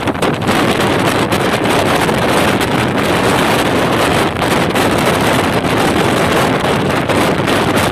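A train running at high speed: a steady, loud rushing noise with heavy wind buffeting on the microphone.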